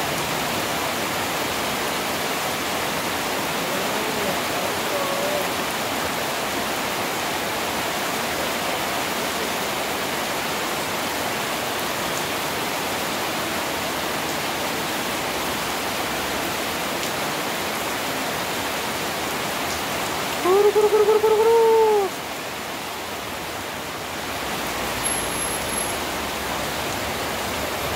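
Heavy rain, a steady hiss. About twenty seconds in, a short loud pitched tone rises and falls over a second or two.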